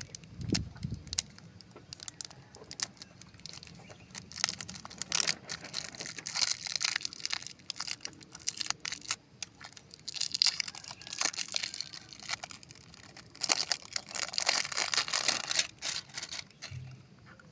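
Foliage rustling and crackling in irregular bursts as long bean plants are handled, with a low thump right at the start.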